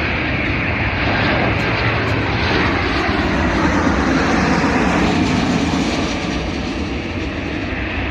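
Airliner's jet engines passing close by, a loud, steady rushing noise that swells to its loudest around the middle and eases off toward the end.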